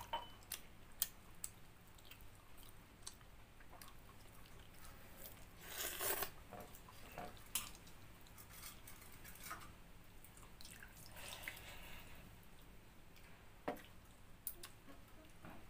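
A person eating chicken curry with watered rice: scattered chewing and biting clicks, with two longer, louder noisy stretches, about six and about eleven seconds in.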